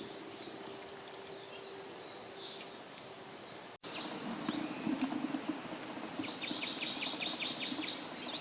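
Forest birds calling: scattered faint high chirps, then a quick trill of about a dozen rapid down-slurred notes near the end.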